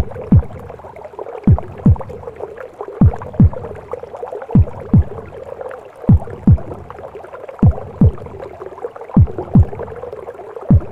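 Simulated womb sound: a mother's heartbeat as paired deep thumps, lub-dub, about every second and a half, each thump dropping in pitch, over a steady whooshing rush.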